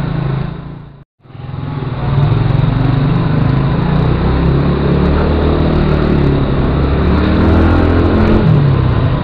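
Motorcycle engine running while being ridden, its pitch rising and falling as it accelerates and eases off. The sound cuts out completely for a moment about a second in.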